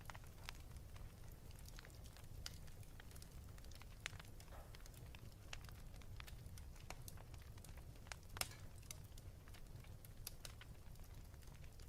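Wood fire crackling in a fireplace: faint, irregular pops and snaps over a low steady rumble, with a sharper pop about four seconds in and the loudest one a little past eight seconds.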